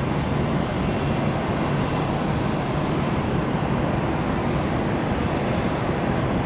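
Jet airliner's engines at takeoff thrust on the departure roll, a steady rush of jet noise that holds even throughout.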